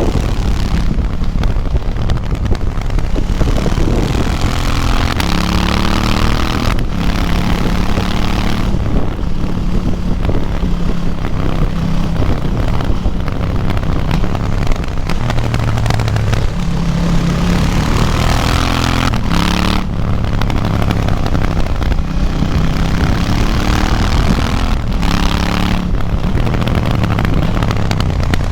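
KTM 790 Duke's parallel-twin engine, restricted to 47.5 hp for the A2 licence, heard from on board under hard riding. The revs climb and drop again and again, with brief breaks in the engine sound about 7, 19 and 25 seconds in.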